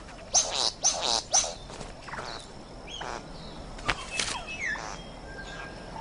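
Satin bowerbird calling at its bower: three loud buzzy calls in quick succession, then quieter chirps and short whistles.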